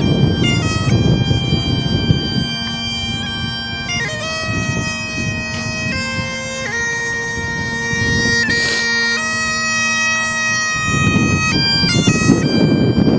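Bagpipes playing a melody over a steady drone. Strong wind buffets the microphone at the start and again near the end, partly covering the pipes.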